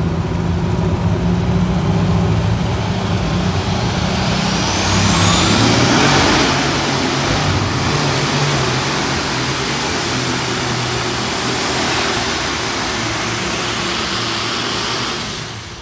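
Case Light Super Stock pulling tractor's turbocharged diesel engine at full power during a pull, with a high whine rising over about two seconds and then held. The sound falls away near the end as the run finishes.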